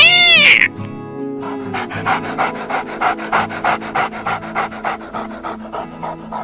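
A short, loud animal call that rises and falls in pitch, then a dog panting in quick, even breaths, about three a second, until near the end.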